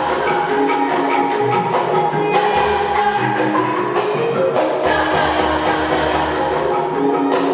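Traditional Banyumas dance music: mallet-struck tuned percussion playing a repeating melody, over a deep bass that comes and goes every couple of seconds.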